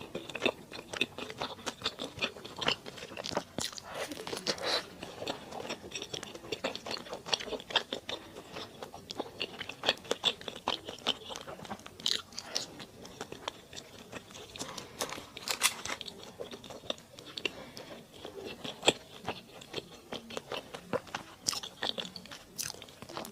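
Close-miked eating sounds of someone chewing and biting into spicy mala duck: a dense, irregular run of wet crunches and sharp clicks with no let-up.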